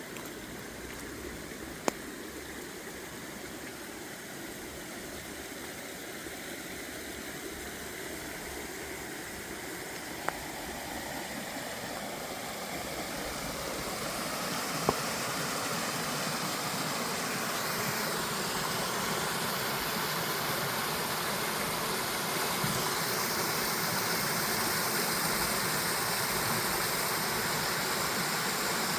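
Running water rushing steadily, growing gradually louder, with three sharp clicks.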